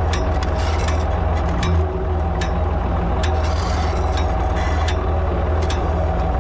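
Ford 3000 tractor's three-cylinder engine running steadily, with irregular sharp clinks and rattles of metal over it.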